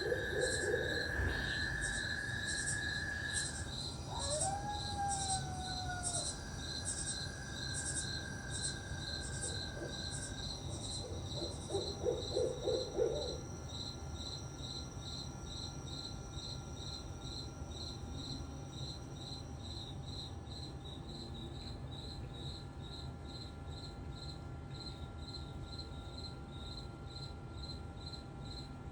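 Night insect chorus of crickets chirping in quick steady pulses throughout. Over it come other night calls: a long, even high trill in the first few seconds that stops and starts again, a call that rises then falls about four seconds in, and a short low pulsed call about twelve seconds in.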